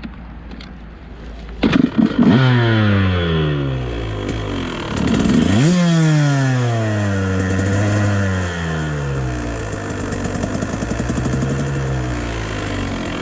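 KTM dirt bike engine, low and quiet at first, then a clatter about two seconds in. The engine revs up sharply and its pitch falls away. It revs hard again about six seconds in, then keeps running with its pitch wavering up and down.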